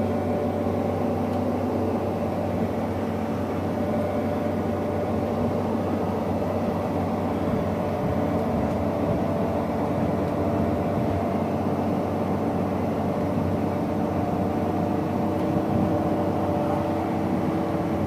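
VR Dm12 diesel railbus running, heard from inside the passenger cabin: a steady drone with several held engine and drivetrain tones, one of which slowly rises in pitch in the second half.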